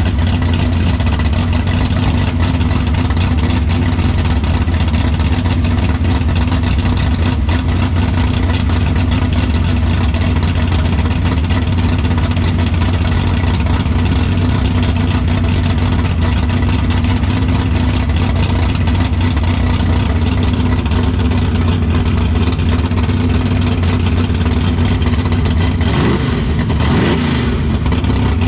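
A vehicle engine's steady low rumble, unchanging throughout. About 26 seconds in, a brief whine sweeps up and down in pitch.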